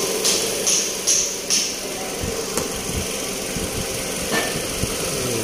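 Hand-tool work on metal during an engine install: about seven short, evenly spaced rasping strokes in the first second and a half, then scattered low knocks. A steady engine hum runs underneath.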